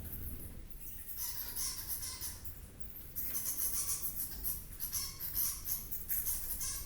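Wild animal calls: bouts of rapid, high-pitched chirping, each about a second long, repeating every second or two over a low steady rumble.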